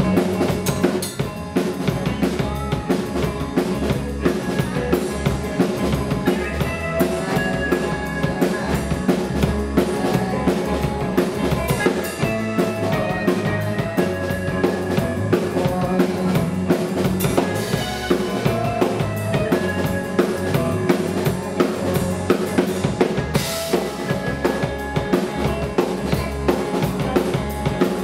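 Live rock band playing: a drum kit keeping a steady, busy beat of kick, snare and rimshots under bass guitar and electric guitars.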